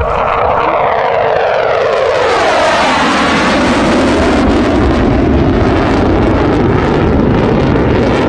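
Jet aircraft flying low past: a loud, steady roar with a sweep falling in pitch over the first three seconds as it goes by.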